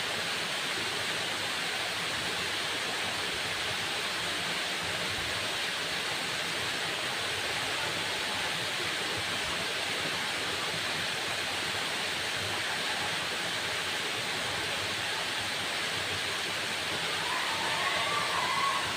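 Waterfall: a steady, even rush of falling water. Near the end a faint wavering whistle rises briefly above it.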